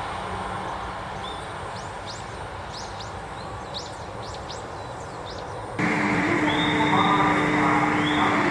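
Electric commuter train noise, a low steady rumble with a few short high chirps over it. About six seconds in it cuts abruptly to a louder train sound with a steady hum and a repeating high whine.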